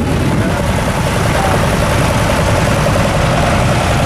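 Vintage tractor engine running steadily at idle, a loud low chugging with no change in speed.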